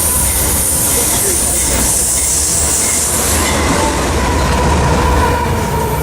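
Freight train rolling past close by: steady rumble of cars on the rails, with a high wheel squeal in the first half that fades a little past halfway.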